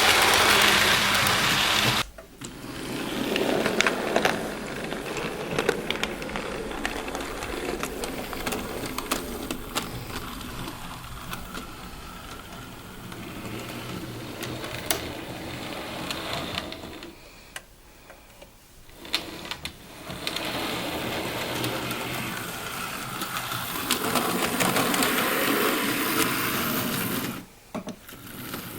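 Model railway steam locomotive running on the layout: the small electric motor whirring and the wheels clicking over the track, growing louder and fainter as the train comes near and moves away.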